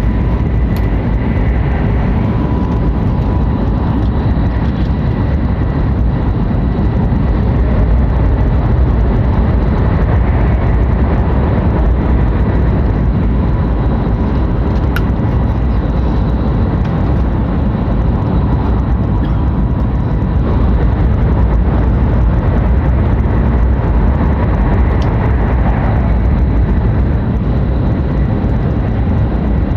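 Hokuriku Shinkansen train running at speed, heard from inside the passenger cabin: a steady, loud rumble of wheels on rail and air noise, with faint steady whining tones above it.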